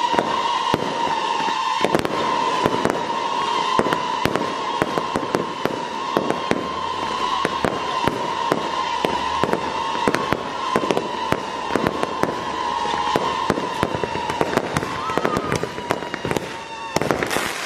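Fireworks going off in a rapid, unbroken string of pops and bangs over a steady high whistle. A dense cluster of bangs comes near the end, then the barrage thins out.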